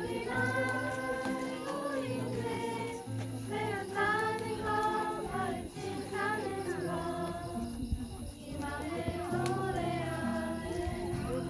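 A group of children singing a song together in unison over a simple instrumental accompaniment of held low notes.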